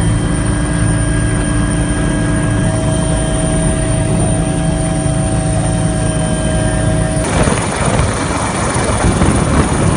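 Helicopter engine and rotor noise: a loud, steady drone with several held tones. About seven seconds in it changes abruptly to a rougher, rushing version of the same engine noise.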